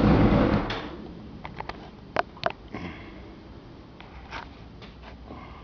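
Yamaha YZF600R inline-four with a D&D exhaust running, then dying away within the first second. After that it is quiet except for a few short faint clicks.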